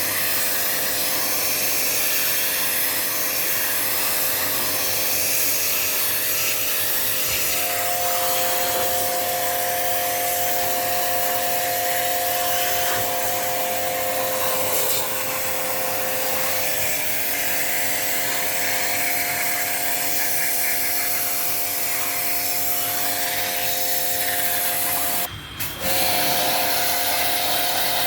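An electric motor running steadily with a rushing hiss and a steady whine, a second, higher whine joining about a quarter of the way in. The sound cuts out for a moment near the end, then resumes.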